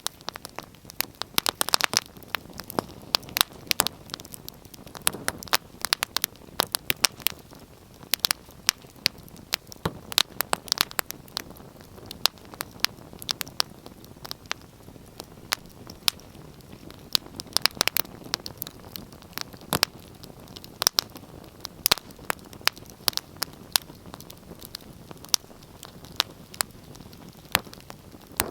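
Wood fire in a fireplace crackling: many sharp, irregular pops and snaps, several a second, over a soft steady hiss of burning.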